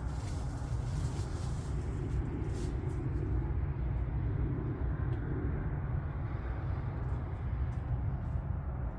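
An engine running steadily with a low rumble, with a few light clicks and rustles over it, most of them in the first few seconds.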